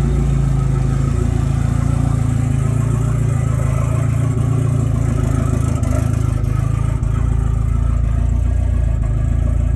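Mitsubishi 4G63 turbocharged inline-four engine idling steadily while it warms up after a cold start.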